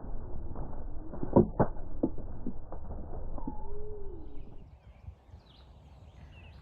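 Muffled rustling and crackling with a few sharp snaps, loudest about one and a half seconds in, and two short curving calls around three and a half seconds. After that it turns quieter, with faint high bird chirps.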